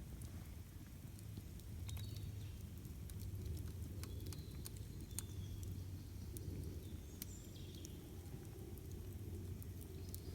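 Wood campfire crackling, with many scattered sharp pops over a low steady rumble. Brief high chirps of birds come now and then.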